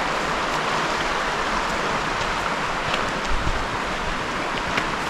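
Steady rushing of running water, with a few faint clicks about three seconds in and near the end.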